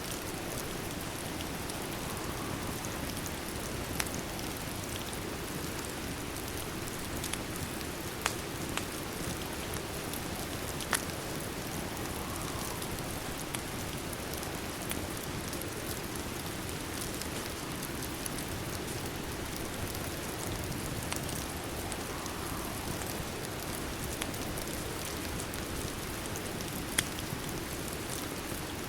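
Steady rain, with a few sharp pops from a crackling wood fire scattered through it.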